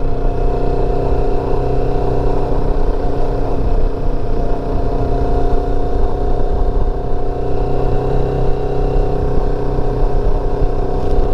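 Motorcycle engine running at a steady cruising speed, its note holding level with no gear changes, over heavy wind and road rumble on the microphone.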